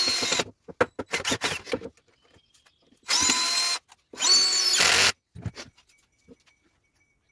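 Power drill running in short bursts, each whining up to speed and holding: one at the start, then two of under a second each about three and four and a half seconds in, with clicking and rattling of handling in between.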